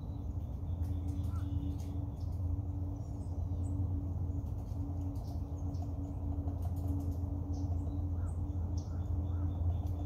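Scattered short bird chirps and calls over a steady low rumble with a faint steady hum.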